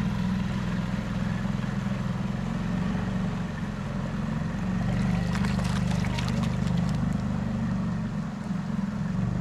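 Small boat's outboard motor running steadily, with a low even throb, as the boat crosses floodwater.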